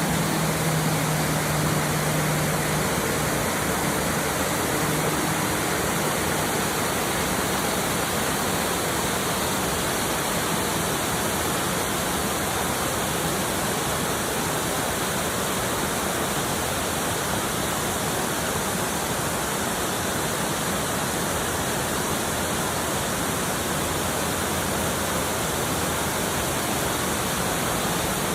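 Waterfall's water pouring steadily into a creek: an even, unbroken rush.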